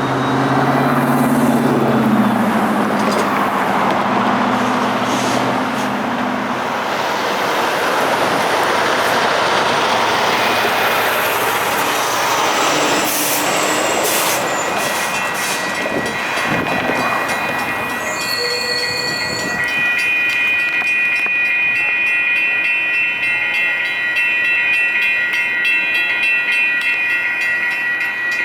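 Freight train led by EMD SD59MX diesel locomotives rolling through a railroad crossing, with low locomotive tones in the first few seconds and then a steady rush of wheels and cars. An electronic crossing bell rings steadily, clearest from about two-thirds of the way in.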